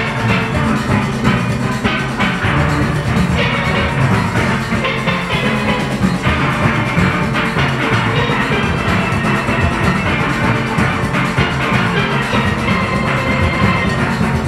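A full steel orchestra of steelpans, backed by drums and rhythm-section percussion, playing a fast calypso Panorama arrangement.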